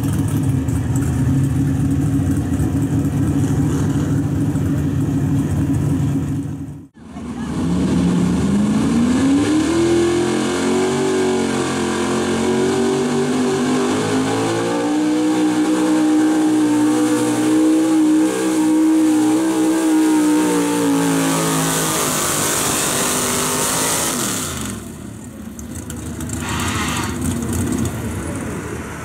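Gasoline V8 engine of a street-class 4x4 pulling truck running flat out under load. After a sudden break about seven seconds in, an engine revs up over a couple of seconds, holds high revs for a long stretch, then falls away near the end as the throttle comes off.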